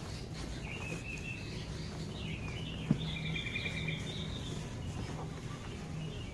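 Small birds chirping, with a short rapid trill about three seconds in, over a steady low hum and a single sharp click.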